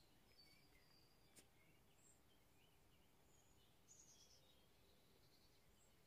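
Near silence: faint, scattered bird chirps over quiet outdoor background, with one faint click about a second and a half in.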